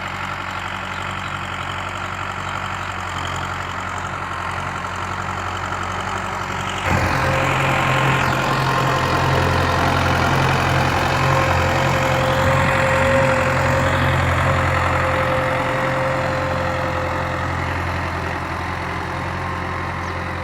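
Tractor engine running steadily. About seven seconds in it suddenly gets louder and fuller, as if throttled up or put under load, then slowly eases off toward the end.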